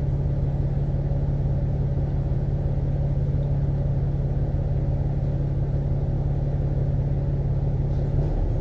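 Double-decker bus engine running at a steady note, heard from inside the bus with a low rumble, as it drives or waits between stops. Just before the end the engine note drops.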